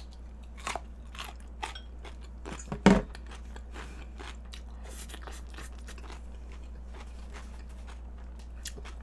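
Close-miked crunchy chewing of cabbage kimchi, with scattered short clicks and one louder knock about three seconds in, which are likely utensils against a stainless-steel bowl.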